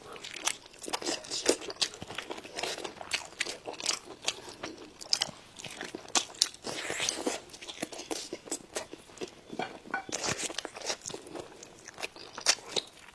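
Close-miked eating sounds: irregular crisp crunches and chewing of food, many sharp crackles in an uneven pattern.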